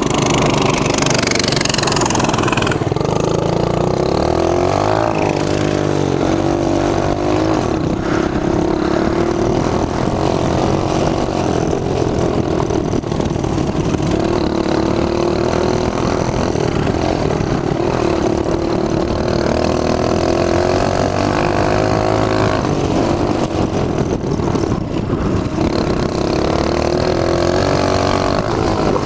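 Mini bike engine running under way as the bike is ridden, its pitch rising and falling as the throttle is opened and eased off.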